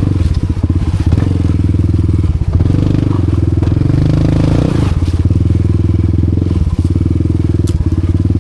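Honda Wave 125 underbone motorcycle, set up for trail riding, its single-cylinder four-stroke engine pulling at low revs up slippery rock with the throttle eased on gently. The note chuffs unevenly, smoothing out and rising in the middle before settling back to a lugging pulse.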